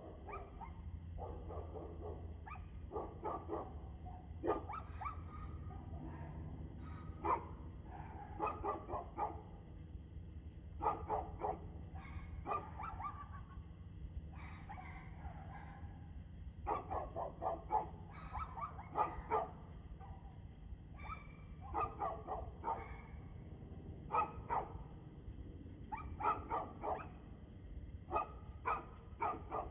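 A dog barking over and over in bouts of several barks, with short pauses between bouts.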